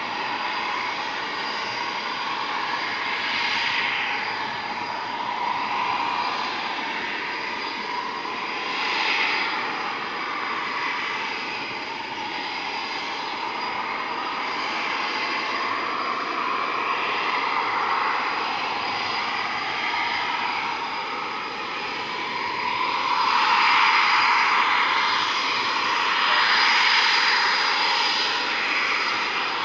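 Eurofighter Typhoon's twin jet engines running, a continuous rushing jet noise with a steady high-pitched whine over it. The noise swells and eases repeatedly and grows louder in the last quarter.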